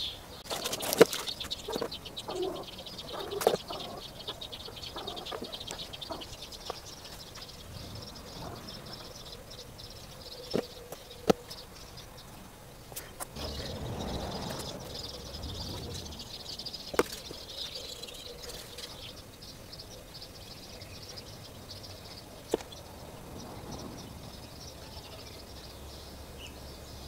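Scattered light clicks and knocks of tools and metal parts being handled while a water pump is fitted to the engine. Behind them is a steady high chirping of birds and insects from outside.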